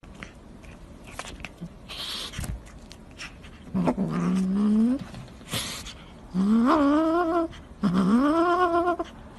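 A pet animal's three long, rising, wavering cries, each about a second long, in the second half, with a few light knocks and rustles before them.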